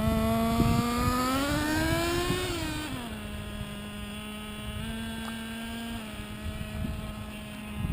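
Traxxas T-Maxx RC truck's 2.5 nitro engine running at low throttle during its first break-in tank: a high buzz that climbs gently for a couple of seconds, drops back about three seconds in, then holds steady.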